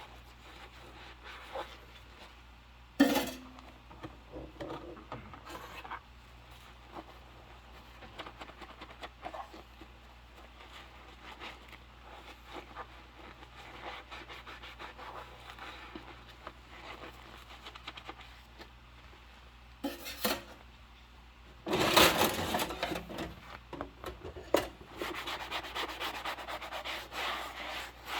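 Dishes being scrubbed and rubbed by hand in rubber gloves. There is a soft, scratchy rubbing most of the time, with a sharp knock about three seconds in. Near the end comes a louder stretch and then fast, even scrubbing strokes.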